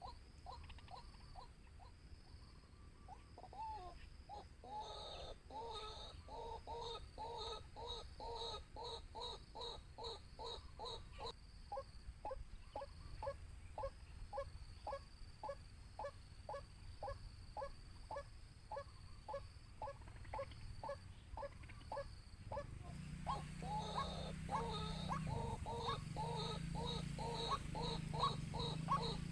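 White-breasted waterhen (ruak-ruak) calling: a long run of evenly repeated notes, about two a second. A low hum joins about 23 seconds in.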